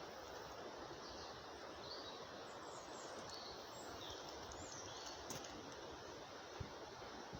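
Steady outdoor background noise with faint, scattered high chirps of small birds.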